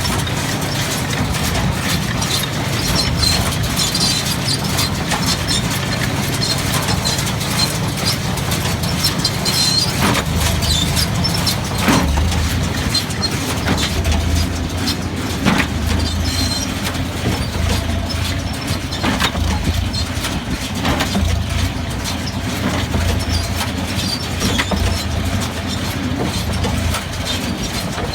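Case 133 hay baler running under tractor power: a steady low engine drone with sharp mechanical clacks from the baler every few seconds.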